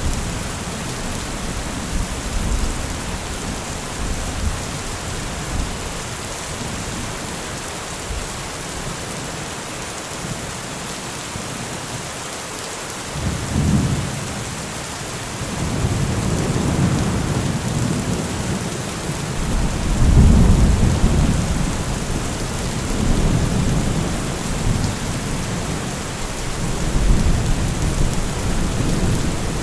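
Steady rain with rolling thunder. Low rumbles of thunder swell about halfway through, peak about two-thirds of the way in, and roll again near the end.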